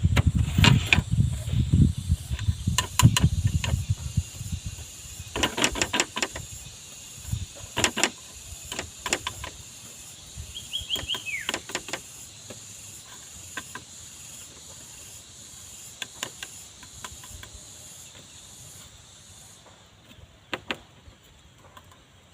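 Scattered sharp clicks and knocks, with low thumping over the first few seconds, over a steady high insect-like hiss that cuts off near the end. About halfway there is a brief falling whistle.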